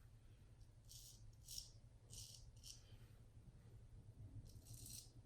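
Faint, short scraping strokes of a Max Sprecher custom 8/8 straight razor cutting lathered stubble on a with-the-grain pass, several strokes with pauses between them.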